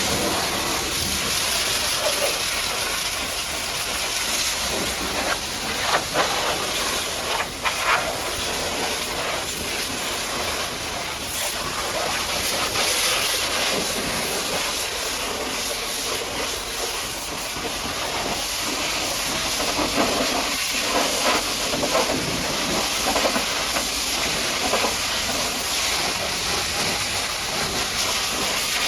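High-pressure water jet from a pressure washer spraying mud off a truck: a steady, loud hiss with a few brief louder surges.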